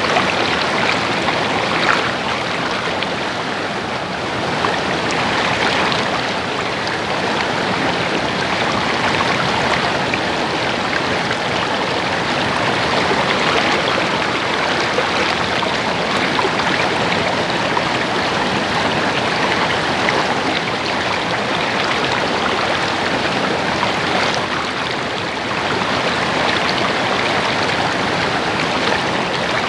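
Stream water babbling steadily, a continuous rushing burble with no pauses.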